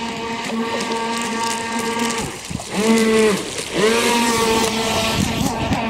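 Stock brushed electric motor of a Traxxas Blast RC speedboat on a 2-cell LiPo, running with a steady whine. About three seconds in it surges twice, each swell rising and falling in pitch over under a second, then settles back to the steady whine.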